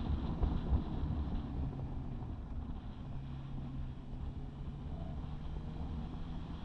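Honda CB650R inline-four motorcycle engine running through an IXIL aftermarket exhaust while riding, with wind buffeting the microphone. The engine note steps down about three seconds in, then holds steady.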